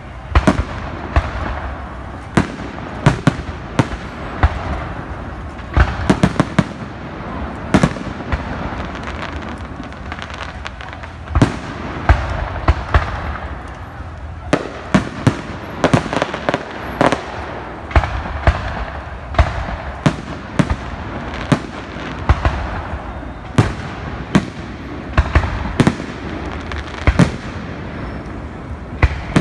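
Aerial fireworks display: shells bursting one after another in sharp bangs, about one or two a second, over a continuous crackling rumble of the show.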